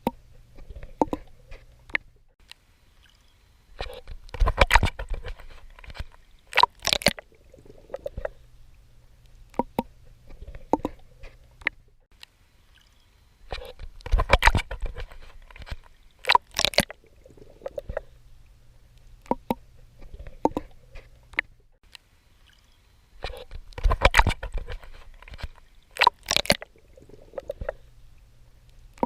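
Swimming in seawater: the strokes splash and slosh in clusters, with quieter gurgling between them. The same pattern of splashes comes round about every ten seconds, three times in all.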